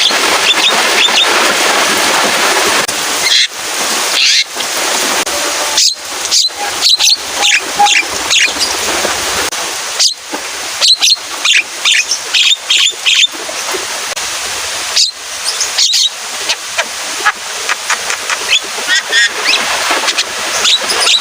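Javan myna singing: a rapid run of sharp, clipped notes and short whistles, over a steady hiss of rain.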